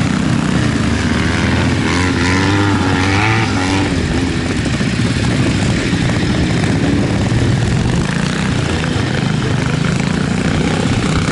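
Ariel four-stroke single-cylinder trials motorcycle running at low revs as it is ridden slowly up a slippery grass section, the engine note rising and falling under the throttle about two to four seconds in.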